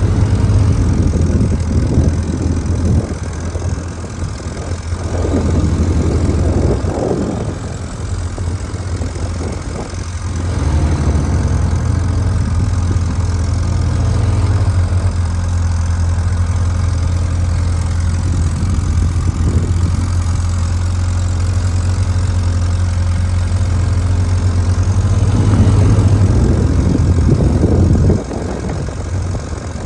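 Motorcycle engine running at low revs, a steady low drone with the throttle rising and falling now and then as the bike is worked through slow-speed manoeuvres. The level drops suddenly near the end.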